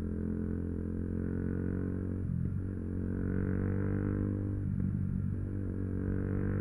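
Yamaha YZF-R125's single-cylinder engine running steadily under way, with two brief dips in its note about two and a half and five seconds in.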